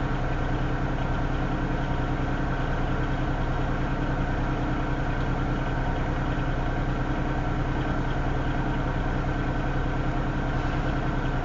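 Diesel freight locomotive idling steadily, a deep even engine hum with no change in pitch, while the train stands still. It is idling up, which the family takes as a sign the train is about to move.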